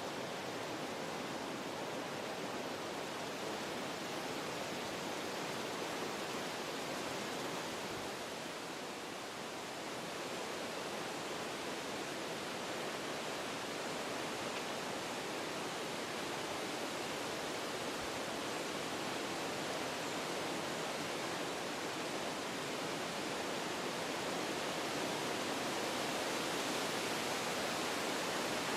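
Wind blowing through forest trees, a steady rush that eases a little about eight to ten seconds in and builds slightly near the end.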